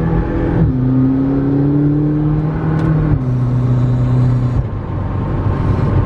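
2015 McLaren 650S Spyder's twin-turbo V8 running while driving. Its note drops in pitch in three steps, the first about half a second in, typical of the gearbox shifting up.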